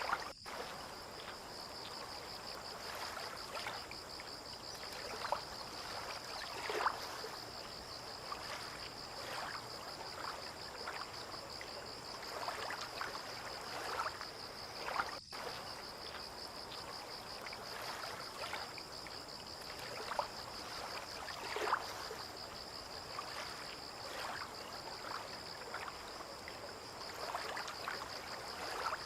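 Water lapping and trickling in soft, irregular splashes under an insect's steady high trill. The sound cuts out for an instant twice.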